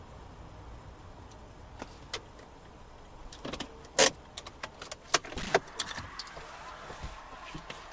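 Car heard from inside: a low steady rumble, then a string of sharp clicks and knocks starting about three and a half seconds in, the loudest about four seconds in.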